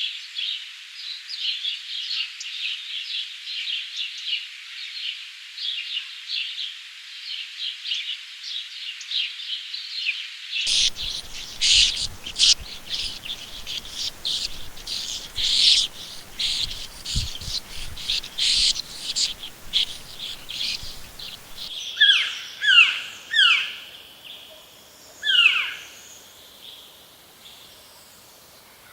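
Rainforest birds chirping in a dense chorus of rapid high notes. About eleven seconds in the sound changes abruptly to a different mix of chirps. Past the twenty-second mark it changes again to a handful of loud calls that each slide downward in pitch, before growing quieter.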